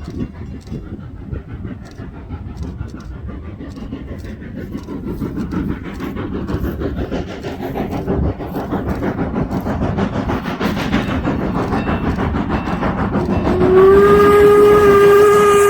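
Norfolk & Western No. 475, a 4-8-0 steam locomotive, approaching, its exhaust chuffing and running gear growing steadily louder. A little over 13 seconds in, its steam whistle starts a long, held blast.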